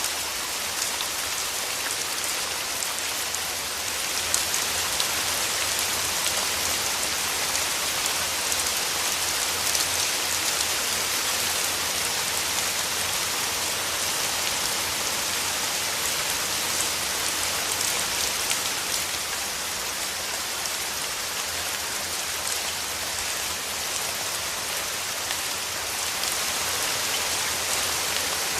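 Steady rain falling, an even hiss dotted with small clicks of individual drops striking a surface.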